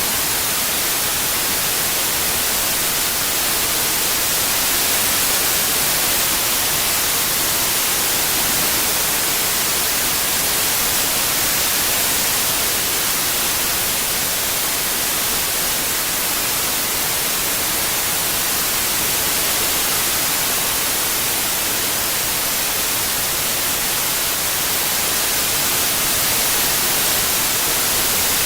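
Synthetic white noise: a steady, even hiss, strongest in the treble, with no changes.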